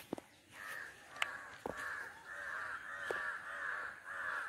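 A bird calling over and over in short, harsh notes, about three a second, starting about half a second in. A few sharp clicks sound through it, the loudest at the very start.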